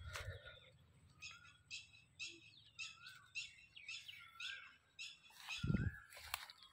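Birds chirping faintly in short repeated notes, about two or three a second, some with small slides in pitch. A brief low thump near the end.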